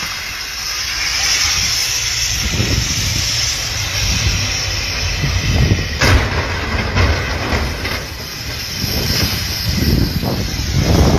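Wind buffeting the microphone in irregular low gusts over a steady hiss, with one sharp click about six seconds in.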